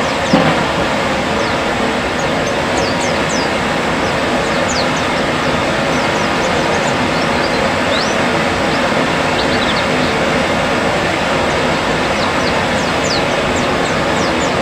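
Many brief, thin, high chirps of white-eyes (pleci), scattered and sometimes several a second, over a steady loud rushing noise.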